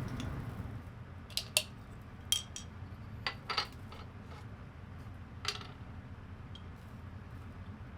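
Light clinks and knocks of tableware or cooking utensils, about six spread over the first six seconds. Under them a low steady rumble fades out about a second in.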